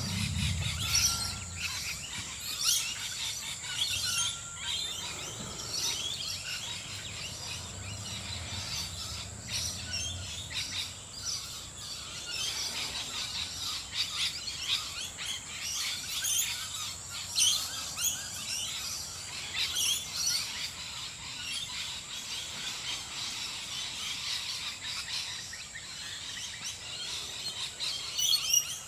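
Many wild birds chirping and calling together in park trees, a dense scatter of short high calls, over a steady high-pitched tone.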